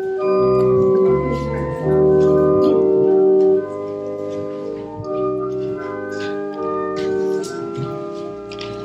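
Church organ playing slow, held chords over a moving bass line, louder for the first three and a half seconds and then softer.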